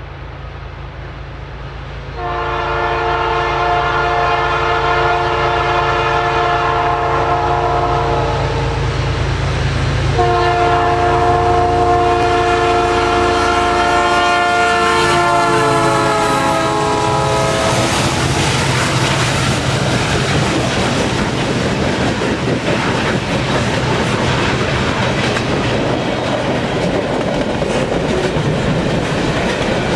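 CN freight locomotive's multi-chime air horn sounding two long blasts, the second dropping slightly in pitch near its end, over the low drone of the engines. Then the freight cars roll past close by with a steady rumble and the clickety-clack of wheels over rail joints.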